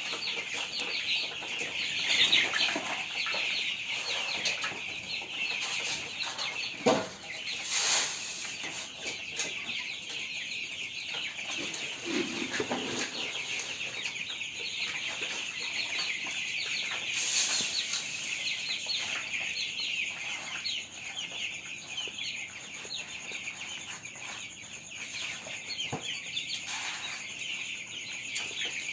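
A flock of three-week-old broiler chicks peeping continuously, many high chirps overlapping, while they eat their morning feed. A few brief knocks come through about 7, 8 and 17 seconds in.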